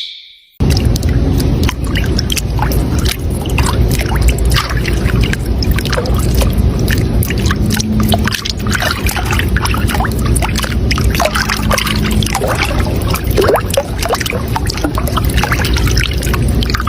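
Water flowing and splashing, a steady flow full of small splashes and gurgles. It starts abruptly just after the beginning.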